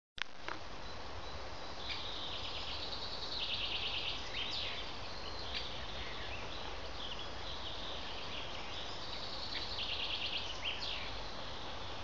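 A songbird singing twice, each song a rapid trill of repeated notes lasting about two seconds and ending in a short falling flourish, with a few faint chirps from other birds between. A low steady rumble runs underneath.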